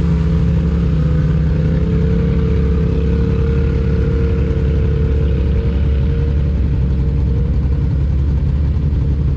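ATV engine running at a steady speed, a loud even drone that holds nearly the same pitch throughout.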